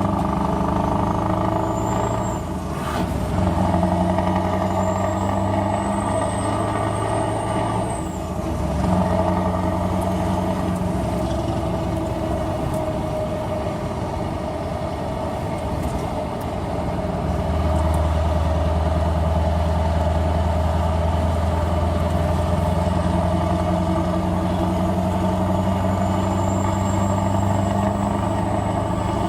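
Scania R500 V8 truck with an open, straight-through exhaust running, its engine note stepping up and down several times. A faint high whistle rises and falls near the start and again near the end.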